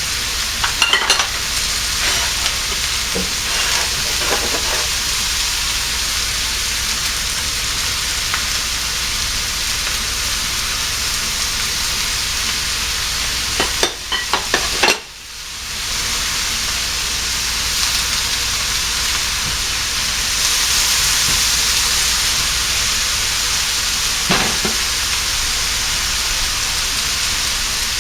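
Chicken and cilantro sizzling steadily in hot oil in the base of a ceramic tagine on the stove, with a few light knocks and clatters near the start and again about halfway through.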